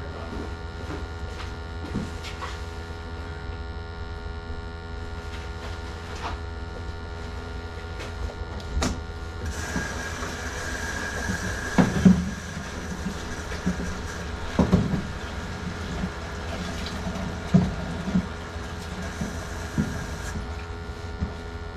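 Steady machine hum throughout, with a few scattered knocks and clicks. About nine seconds in, a hiss with a faint whistle starts, runs for about eleven seconds, then stops.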